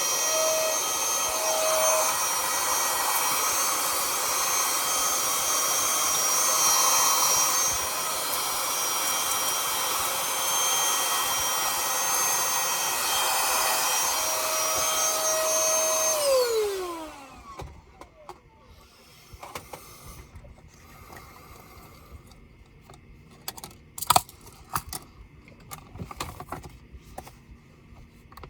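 A small high-speed electric motor running with a steady rush of air and a high whine. It is switched off about 16 seconds in and spins down with a falling whine. Then come light clicks and taps.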